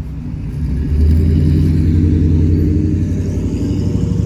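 A car engine running close by with a low-pitched, steady sound, getting louder about a second in and then holding level.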